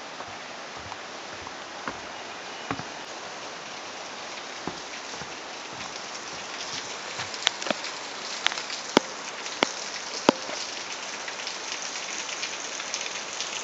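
Light rain pattering, with sharp single raindrop taps, over a steady hiss of a waterfall's running water. The hiss swells a little about halfway through. A handful of louder taps come between about seven and ten and a half seconds in.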